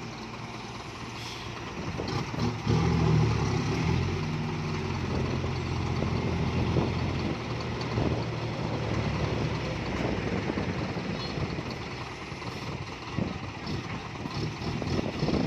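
Isuzu FXZ 360 dump truck with a loud modified exhaust, its diesel engine running and picking up about two and a half seconds in.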